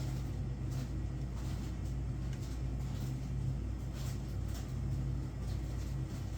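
Steady low machine hum, with scattered faint clicks and rustles from goods and packaging being handled.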